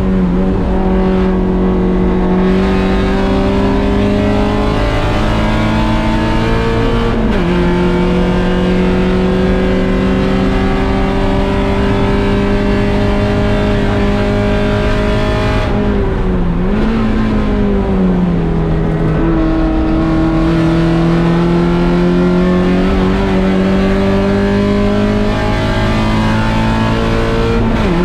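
1.6-litre Mazda Miata race car's four-cylinder engine running under hard throttle, its pitch climbing steadily through each gear and dropping sharply at the shifts, about seven seconds in, near the end, and several times around the middle with a brief dip and rise in pitch.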